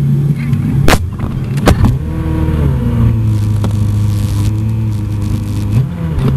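Car engine running at low speed, its note wavering slightly in pitch, with two sharp knocks in the first two seconds.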